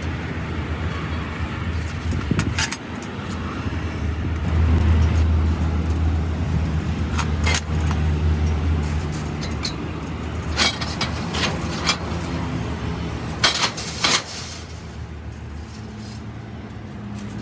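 A machine running with a steady low hum, a little louder in the middle, and a handful of sharp metallic clinks scattered through.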